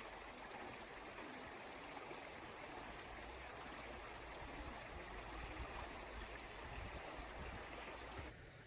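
Steady rushing of a flowing stream, which cuts off abruptly near the end.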